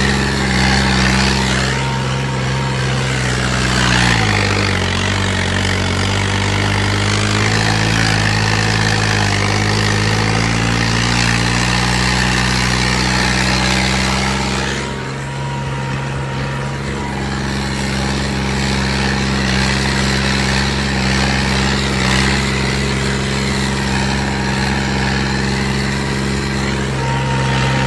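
New Holland 5620 tractor's diesel engine running steadily. Its note sags about four seconds in, then climbs back gradually over the next several seconds.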